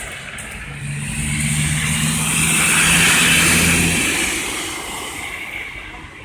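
A car driving past: engine hum and tyre hiss build to a peak about three seconds in, then fade away as it moves off.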